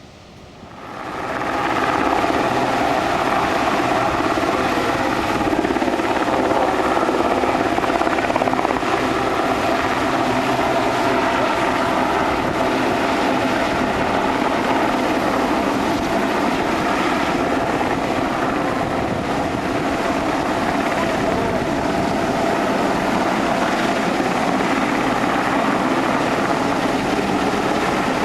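Sea King helicopter hovering close by, its rotor wash and turbine whine loud and steady after swelling up over the first two seconds.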